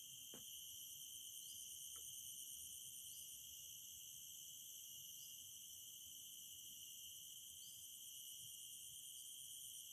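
Faint, steady high-pitched insect chorus, with a short rising chirp repeating about every second and a half and two faint clicks in the first two seconds.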